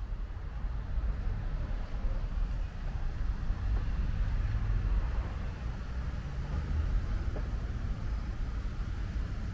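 Steady rumble of nearby road traffic, swelling a little in the middle, over the even hiss of light rain.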